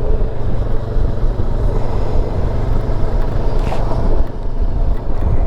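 Motorcycle riding at a steady cruise: the engine running evenly under a continuous low rumble of wind and road noise.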